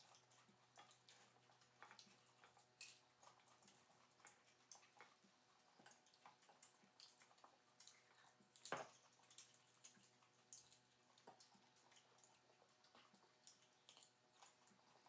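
Near silence with faint, irregular small clicks and ticks, and one sharper click near the middle.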